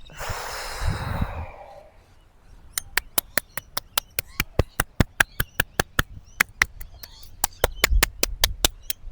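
A long breath out through the mouth, fading over about two seconds. Then, about three seconds in, a steady run of sharp clicks begins, about five a second.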